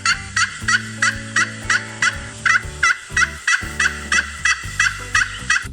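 Turkey gobbling: a rapid run of short, wavering calls, about three a second, over soft background music.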